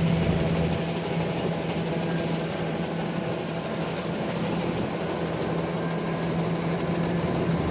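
Diesel engine of heavy farm machinery running steadily, with a strong steady hum.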